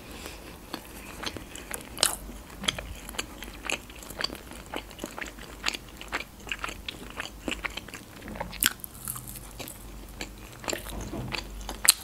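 Close-up chewing of breaded McDonald's chicken nuggets: a run of small crunches and wet mouth clicks, with a louder bite into a fresh nugget near the end.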